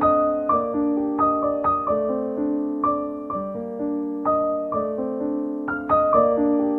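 Gentle piano background music, single notes struck one after another at an unhurried pace, each ringing and fading.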